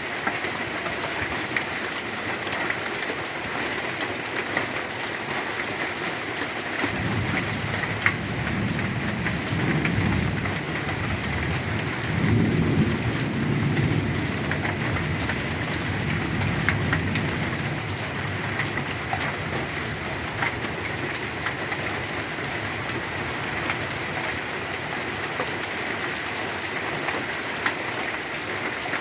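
Heavy rain falling steadily, with patters and drips. A long roll of thunder comes in about seven seconds in, grows loudest near the middle and rumbles away a few seconds later.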